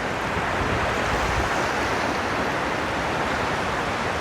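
Gulf of Mexico surf washing steadily onto a sandy beach.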